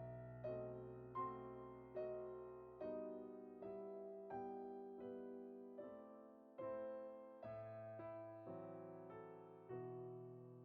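Soft background piano music: slow single notes and chords, each struck and left to fade.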